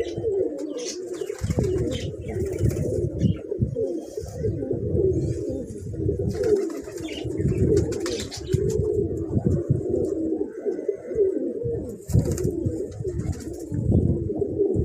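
Several domestic pigeons cooing continuously, overlapping low warbling coos.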